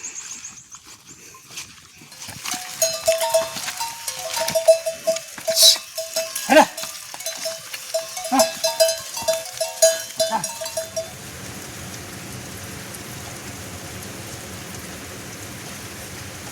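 Livestock bells clanking over and over for several seconds, with a few sharp knocks among them. About two-thirds of the way in they stop, and steady rain takes over.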